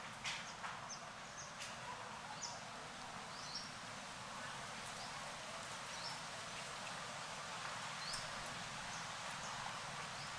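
Outdoor ambience: a steady hiss with a dozen or so short, high chirps scattered through it, and a few faint clicks.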